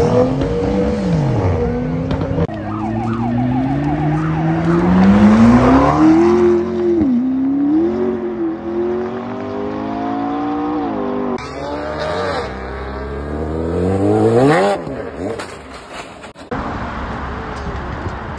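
Cars launching hard one after another, each engine revving up in rising pitch and dropping back at each gear change, with abrupt cuts between runs. The first is a BMW coupé accelerating away.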